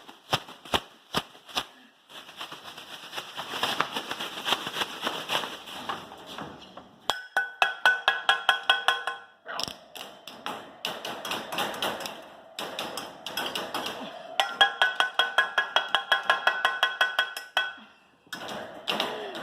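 Loud, rapid banging and clattering in runs of several strikes a second, some strikes carrying a ringing pitch, with a brief pause about halfway. It is noise made deliberately to test young puppies' startle reaction and nerve.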